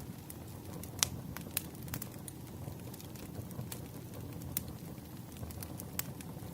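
Firewood burning in a campfire: a steady low rumble of flames with scattered crackles and pops, the sharpest about a second in.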